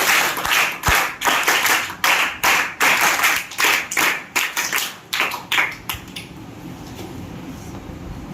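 A small group clapping by hand, irregular and dense, dying away about six seconds in.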